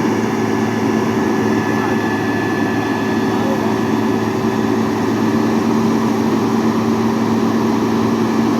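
Heavy truck engine running steadily, a loud even drone with a constant hum, during the recovery of a container truck.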